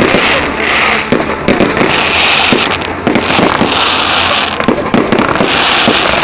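Fireworks display: a rapid string of loud bangs from bursting shells, with patches of dense crackling.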